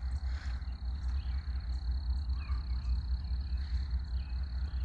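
Outdoor ambience: a steady low rumble with a thin, steady high-pitched whine and scattered faint chirps of small animals.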